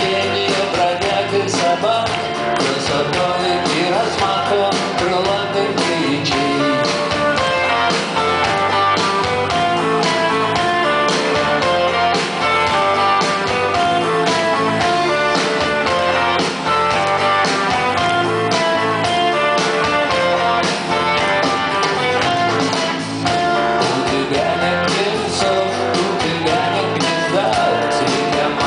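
Live rock band playing loudly, with guitars and a steady drum beat, recorded from among the concert audience.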